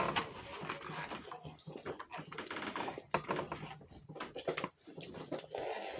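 Noodle-eating sounds: irregular small clicks and smacks of chewing and utensils. A short rushing hiss comes near the end.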